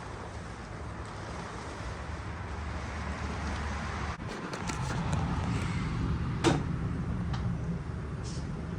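SRT-4's big-turbo four-cylinder engine running at light load. About four seconds in the engine note drops briefly with a few clicks, then comes back stronger, with one sharp knock-like sound at about six and a half seconds.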